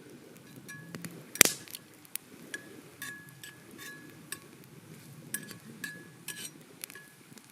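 Cooking gear clinking: a string of sharp metal-or-glass knocks, the loudest about a second and a half in, several leaving a brief ringing tone.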